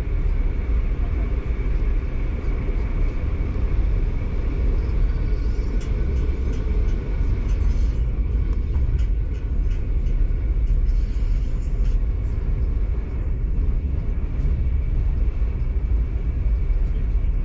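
Train running: a steady, loud low rumble that does not change.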